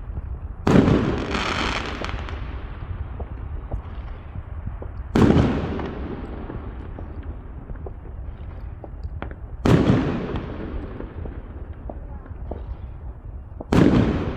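Fireworks going off: four loud bangs about four to five seconds apart, each trailing off over a second or so.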